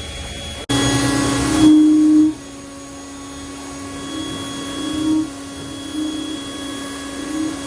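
A steady mechanical drone at one unchanging pitch, loud for the first couple of seconds after an abrupt start, then quieter with small swells about once a second.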